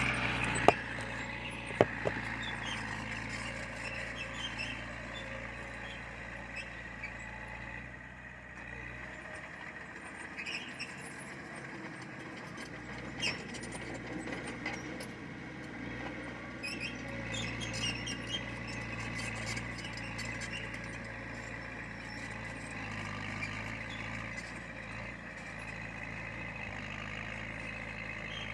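Heavy diesel earthmoving machinery running steadily, with a faint high whine over the engine. Two sharp knocks about a second and two seconds in.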